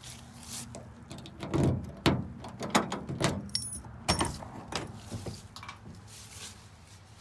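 Cab door of an old pickup truck being unlatched and swung open: a run of clunks, clicks and rattles over a few seconds.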